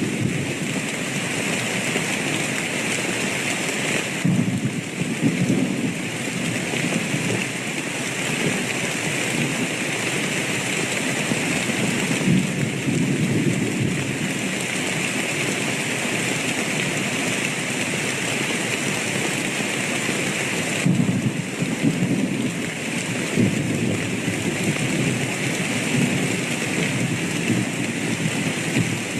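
Steady heavy rain, with low rumbles of thunder swelling and fading several times.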